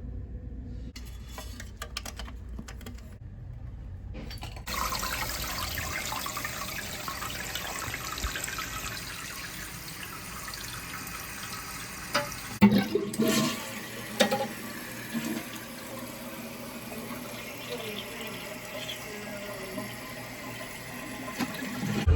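Toilet flushing: water starts rushing about five seconds in and keeps running steadily as the tank refills, with a few knocks about halfway through.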